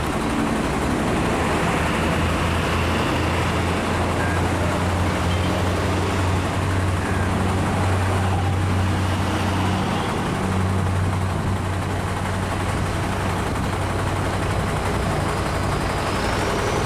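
Heavy truck engines running steadily near idle in a traffic jam: a continuous low engine hum over traffic noise.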